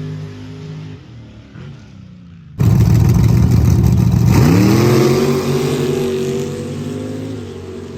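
Dirt drag race truck engines: one runs steadily at first, then after a sudden loud start a truck's engine revs hard, its pitch climbing fast and then holding as it pulls away down the track, slowly fading.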